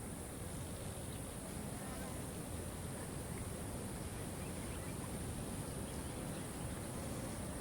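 Steady rush of a waterfall, with a steady high hiss over it and a few faint bird chirps.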